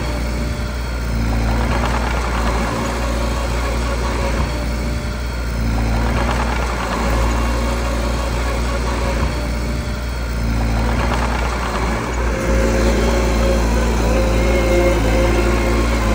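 Small bulldozer's diesel engine running, its note swelling and easing every few seconds as it works under load, and rising a little from about twelve seconds in.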